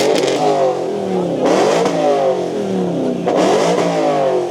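A car engine being revved, about three surges in pitch a couple of seconds apart, each rising and falling back.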